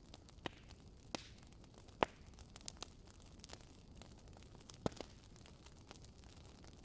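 Wood fire burning in a fireplace: a soft steady hiss broken by irregular sharp crackles and pops of the burning logs, the loudest about two seconds in and near five seconds.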